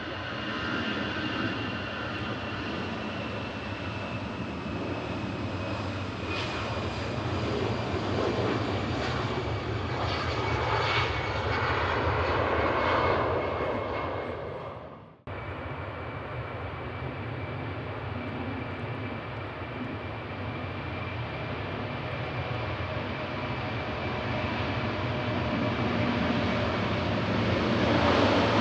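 Jet airliner engines passing: a steady rumble with a whine that slowly falls in pitch as it grows louder. It cuts off abruptly about halfway through, and a second airliner's engines follow, building louder toward the end.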